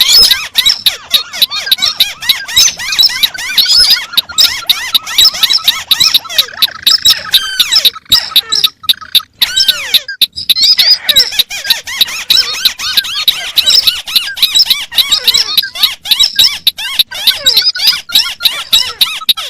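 Crakes calling: a rapid, dense chatter of short squeaky notes, many a second, with several calls overlapping, broken by a few brief gaps about eight to ten seconds in.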